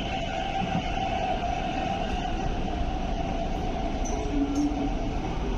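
MTR East Rail Line R-train electric multiple unit pulling out of a station platform, its traction motors giving a steady whine over the rumble of wheels on rail. The whine weakens after about three seconds as the train moves off.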